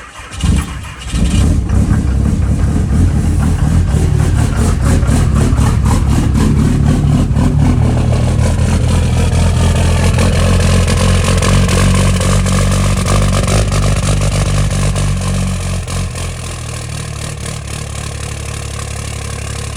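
Cummins diesel engine cold-starting in freezing weather without its intake grid heater and on a single battery: a brief crank, it catches about a second in and runs at a fast idle with a rapid clatter, then settles to a lower, quieter idle at around sixteen seconds.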